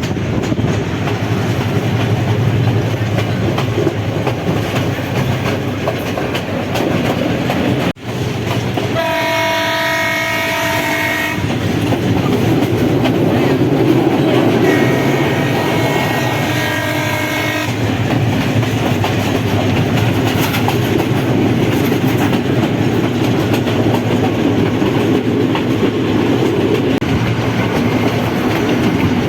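Train running with steady rail and wheel noise. The locomotive horn sounds twice: a blast of over two seconds about nine seconds in, and a slightly quieter one of about three seconds around fifteen seconds in.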